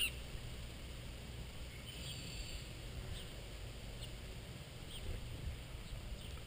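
Small birds at a feeder giving scattered short, high chirps, about five or six spread over several seconds, over a faint steady low rumble.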